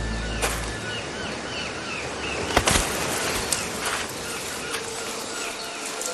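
Tropical forest ambience: an even insect hiss with a short chirping call repeated about twice a second, and a few sharp clicks and snaps, the loudest about two and a half seconds in.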